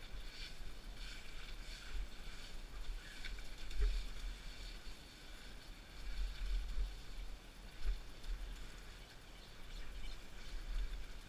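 A mountain bike being ridden down a dirt single-track, its frame and parts rattling and clicking over the rough ground, while wind buffets the microphone in uneven gusts.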